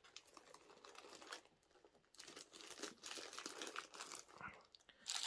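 Small plastic bags crinkling and rustling as they are handled, faint at first and busier from about two seconds in.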